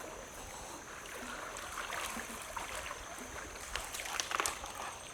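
Small boat moving on a river: soft water noise with scattered light knocks and a thin steady high tone.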